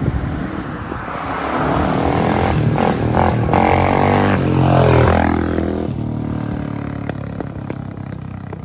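Honda XR600R dirt bike's single-cylinder four-stroke engine under way. It grows louder to a peak about five seconds in, where its pitch dips and climbs again, then fades.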